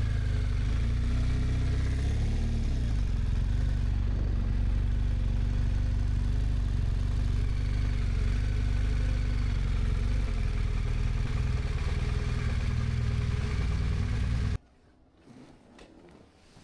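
BMW touring motorcycle engine running steadily at low speed, with a heavy low rumble. It stops abruptly a couple of seconds before the end, leaving only a few faint clicks.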